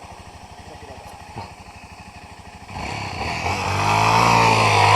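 Off-road motorcycle engine idling with an even, low pulse, then revving up sharply just under three seconds in and pulling hard with a rising note.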